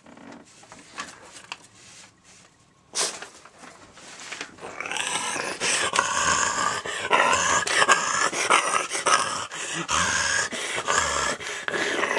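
Paper rustling and clicks, then from about four seconds in a long, wavering, growling animal-like vocal sound, voiced for a sharp-toothed paper bag puppet.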